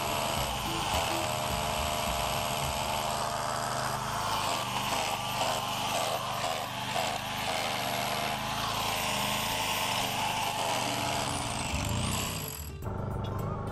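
Electric angle grinder cutting an iron ladder rung to length: a steady high whine with a harsh hiss from the disc biting the metal, shifting as it cuts, then shutting off sharply near the end.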